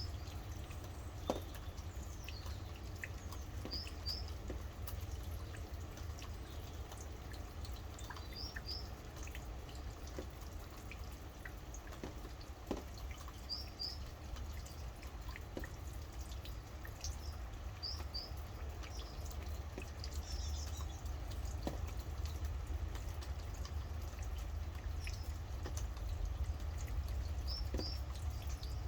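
Rain dripping, with scattered drops ticking over a steady low rumble. A small bird repeats a short, high double chirp every few seconds.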